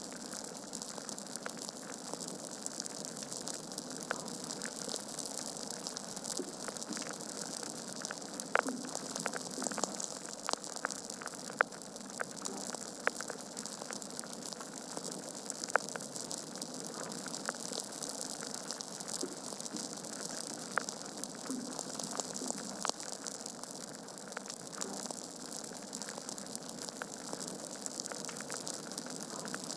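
Wood fire burning in a fireplace: a steady soft hiss and rush of flames with frequent sharp crackles and pops from the logs, a few louder snaps among them.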